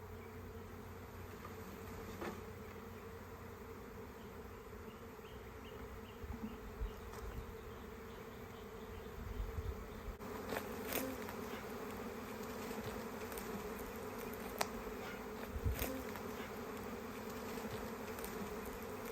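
A swarm of honeybees buzzing in a steady, continuous hum. A few short knocks or clicks come through in the second half.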